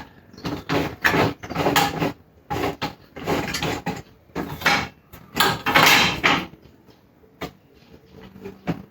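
Packaging and parts being handled while a cordless table saw is unboxed: a run of irregular scraping and rustling noises, each under a second long, that dies down about seven seconds in.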